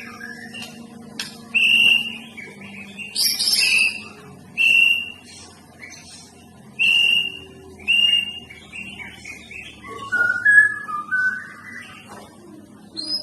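White-rumped shama (murai batu) singing: a run of loud, clear whistled notes a second or so apart, then softer, lower warbling phrases near the end.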